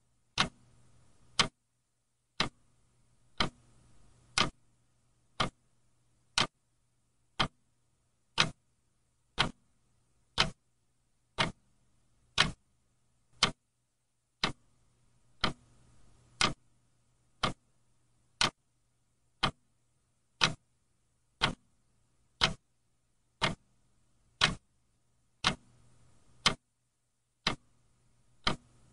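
Clock ticking steadily, about one tick a second, with a faint low hum underneath.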